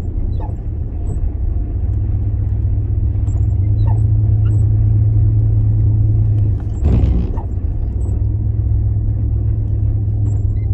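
Steady low rumble of a car driving, heard from inside the cabin, with a brief whoosh about seven seconds in.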